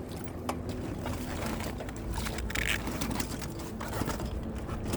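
Scattered light clicks and knocks as a crab trap full of Dungeness crabs is handled on a kayak, over a steady wash of water.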